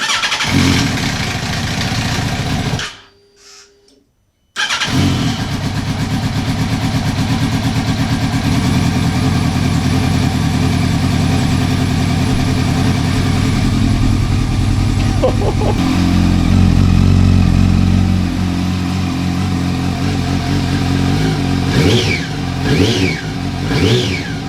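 A Yamaha R1's inline-four engine, breathing through a Yoshimura exhaust, runs on its first start after its crankcase was welded. It cuts out about three seconds in and is restarted a second and a half later. It then idles smoothly, with a few short revs near the end, a sign that the repaired engine is mechanically sound.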